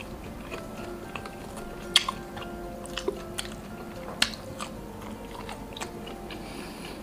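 Close-miked chewing and biting of grilled meat: wet mouth clicks and smacks, the two loudest about 2 and 4 seconds in. Quiet background music plays underneath.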